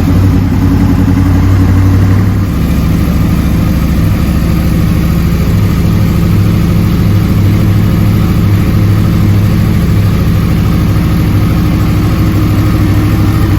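Crossplane-crank inline-four sportbike engine idling just after being started, running slightly higher for the first couple of seconds, then settling into a steady, even idle.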